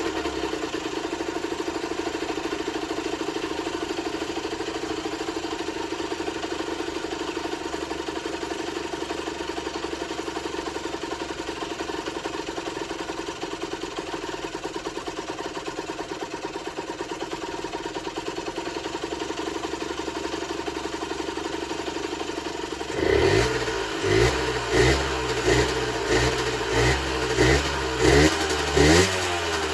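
Generic Trigger SM 50cc two-stroke engine idling steadily, now running after its blocked main and pilot jets were cleared. About 23 seconds in the throttle is blipped in quick repeated revs, roughly one and a half a second.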